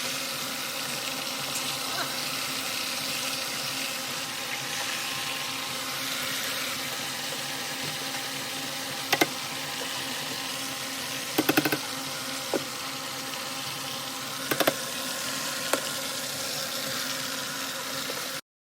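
Steady hiss with a few sharp clicks and clinks, a short cluster of them about halfway through; the sound cuts off abruptly near the end.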